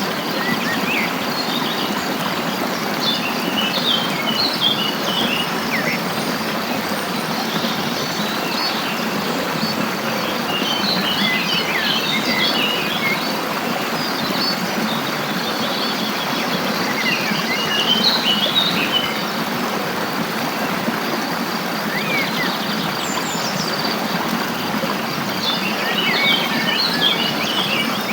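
Songbirds singing in short runs of quick, high chirps every several seconds over the steady rush of flowing stream water.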